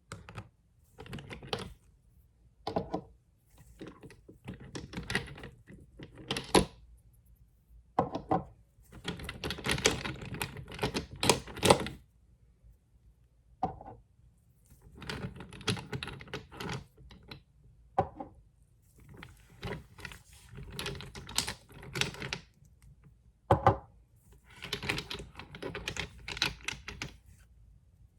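Fast tapping and scratching on nail polish bottles: quick runs of sharp clicks lasting a second or two each, broken by short pauses, with an occasional single louder knock.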